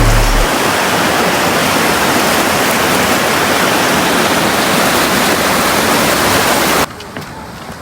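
Loud, steady rushing noise that drops abruptly to a much quieter hiss near the end.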